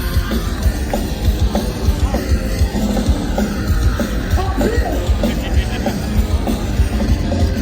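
Live hardcore punk band playing a song at full volume, with fast pounding drums and distorted guitars, recorded through a phone-type microphone that is loud and saturated.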